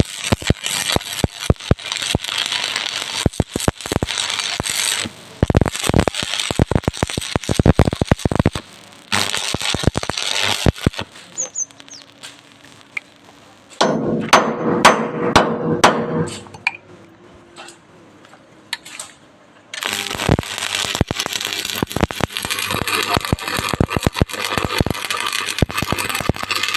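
Arc welding on steel: a loud, crackling, spitting arc in several long runs, broken by short pauses and sharp clicks and knocks.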